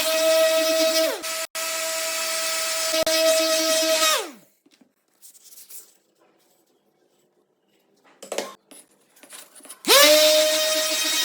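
Small electric power tool's motor running at a steady high whine, dipping briefly just after a second in, then winding down and stopping after about four seconds. A few faint clicks follow, and near the end it starts up again with a rising whine.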